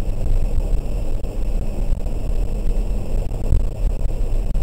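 Inside the cabin of a 2003 BMW 330i ZHP driving on a wet track: its straight-six engine runs under a steady low rumble of tyre and road noise.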